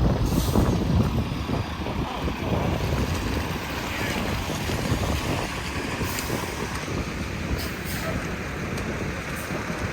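Wind noise on the microphone, a steady low rumble that rises and falls unevenly, with a few short faint clicks over it.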